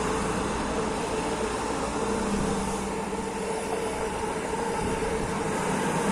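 A passing train's steady running rumble, with a constant hum through it.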